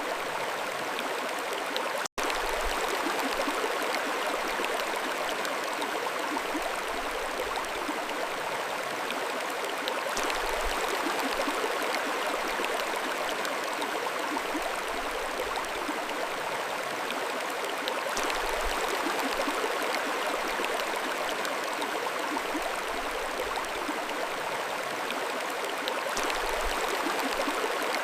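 Mountain stream flowing, a steady rushing and gurgling of water over stones. There is a split-second dropout to silence about two seconds in.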